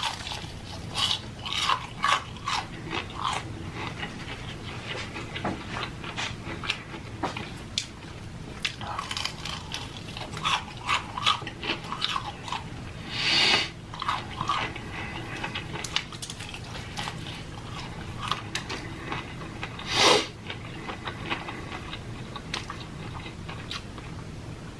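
A person biting and chewing crispy fried chicken close to the microphone, with many short crunches and mouth clicks. There is a louder noisy burst about halfway through and another about three-quarters of the way through.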